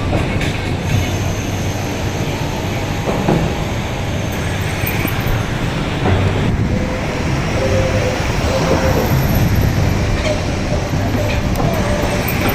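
Steady heavy mechanical rumble with scattered clanks and a brief squeal about eight seconds in, typical of construction machinery at work.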